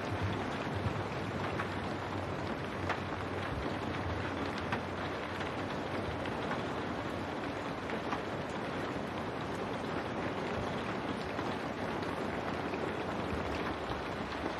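Steady rain on window glass, a dense even hiss with scattered sharper drop ticks and a low rumble under it in the first few seconds.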